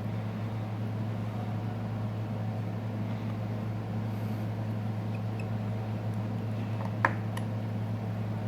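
Steady low hum with a few faint clicks of small screws being driven into a Samsung Galaxy S6's frame, and one sharper click about seven seconds in.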